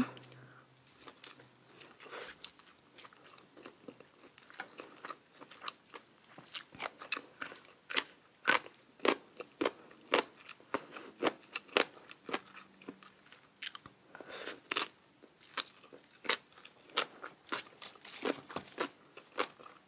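Close-miked chewing of crisp food, with short sharp crunches that are sparse at first and then come about once or twice a second.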